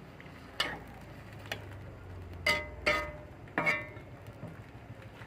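Metal cookware or utensils clanking: four sharp, ringing clanks, the second and third close together about halfway through. A faint low hum swells and fades under them.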